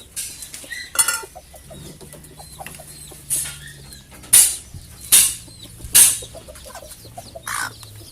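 Bantam chickens clucking while a dish or water container is knocked and scraped about six times in short, sharp clatters.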